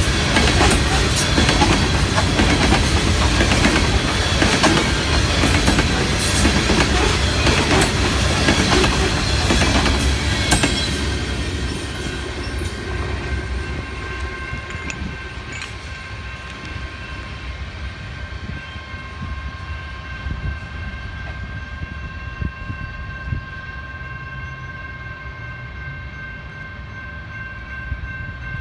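Empty coal train's hopper cars rolling past, wheels clacking over the rail joints. The noise drops away about ten seconds in as the end of the train goes by and rolls off. Faint steady high tones linger after that.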